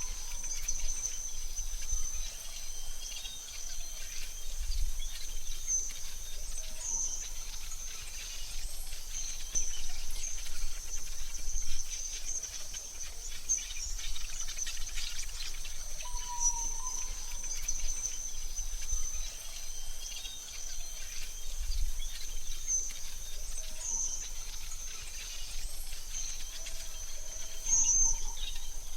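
Forest ambience: a steady, high-pitched insect trill like crickets, with a few short bird calls, one about halfway through.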